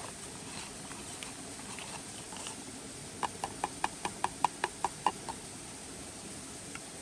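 A quick run of about ten light, sharp knocks, roughly five a second for about two seconds, over a steady hiss.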